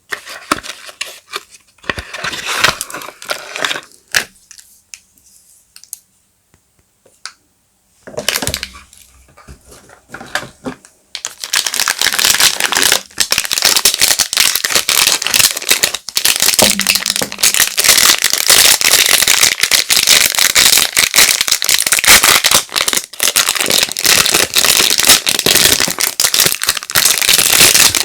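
Soap packaging being unwrapped by hand: the wrappers crinkle and crackle in quick dense clicks. The sound stops for a few seconds about four seconds in, then comes back as loud, continuous crinkling from about eleven seconds on.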